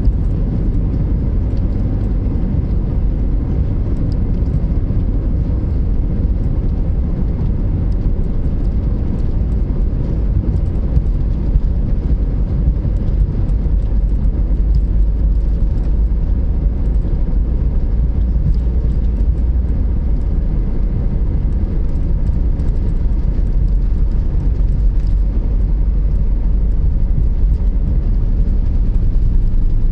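Airbus A320 cabin noise: a steady, loud low rumble of the running jet engines and airframe, with faint scattered rattles, growing slightly louder toward the end.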